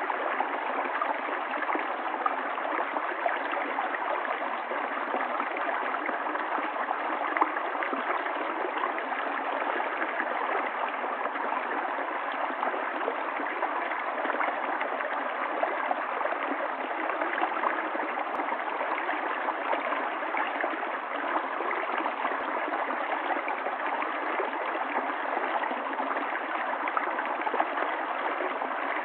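Running water of a stream: a steady, even rush flecked with many small splashes.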